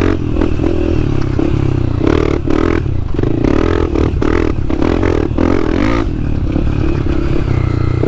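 Dirt bike engine running hard around a motocross track, its pitch rising and falling as the throttle opens and closes, with short breaks in the sound.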